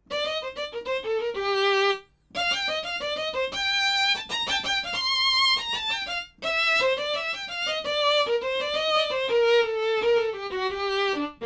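Sampled fiddle patch from the Bismark bs-16i sound-module app playing a fiddle-style melody of quick runs, with vibrato on the held notes. It comes in three phrases, with short breaks about two seconds and about six seconds in.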